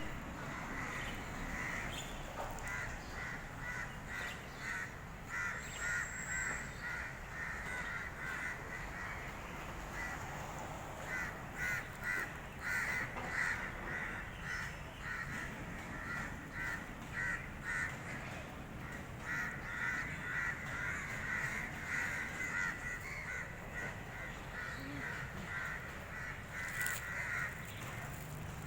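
Birds calling noisily: short calls repeated several times a second in long runs, broken by brief pauses.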